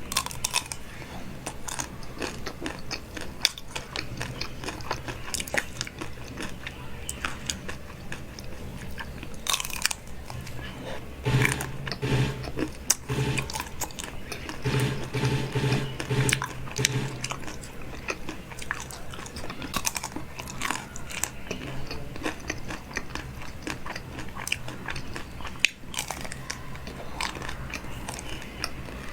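Close-miked eating: a person biting into and chewing crunchy food, with many short, sharp crunches throughout.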